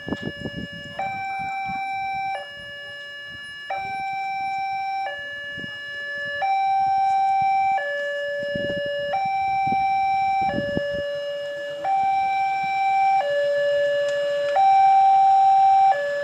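Railway level crossing warning alarm sounding, an electronic two-tone signal that steps back and forth between a higher and a lower note about every second and a half and grows louder over the stretch. It warns that a train is approaching the crossing. A couple of low rumbles from passing road vehicles come and go around the middle.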